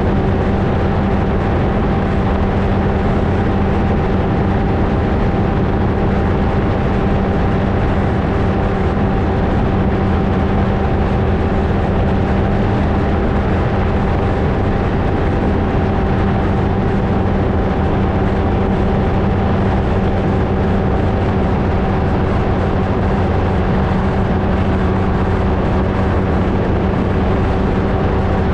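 Flightstar II ultralight's engine and propeller running steadily at constant power, one unchanging drone over a rushing noise.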